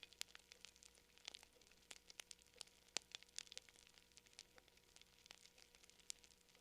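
Campfire crackling: a faint, irregular stream of small pops and snaps, with one sharper pop about three seconds in.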